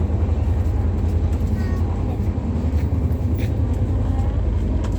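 Steady low rumble of a moving passenger train, heard from inside the carriage, with faint voices in the background.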